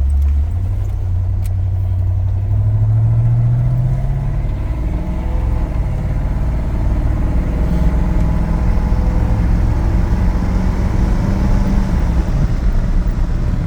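1983 GMC C2500 pickup's V8 engine accelerating, its pitch climbing over the first few seconds, then running steadily at cruising speed with road noise.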